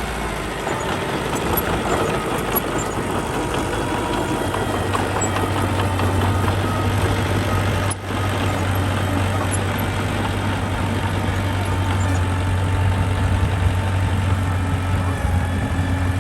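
Diesel engine of heavy earthmoving machinery running steadily with a constant low drone, broken once by a short dip about eight seconds in.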